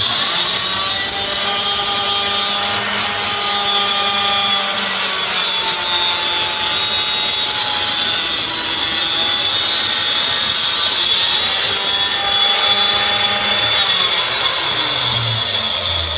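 Circular saw running and cutting wood, a continuous loud whine and rasp whose pitch sags and recovers now and then as the blade is loaded.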